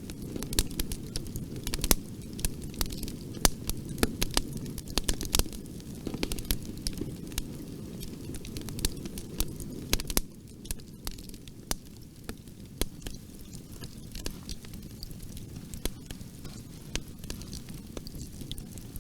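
Bonfire burning: a steady low rumble of flames with frequent sharp crackles and pops of burning wood. The pops come thick for the first half, then the fire quietens and they thin out.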